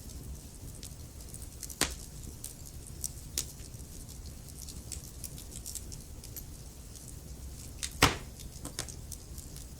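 Wood fire crackling over a low steady rumble of the flames, with sharp pops from the burning wood: one loud pop about two seconds in and the loudest about eight seconds in.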